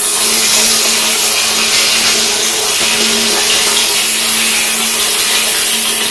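A steady, loud motor hum with a strong rushing hiss, unchanging throughout.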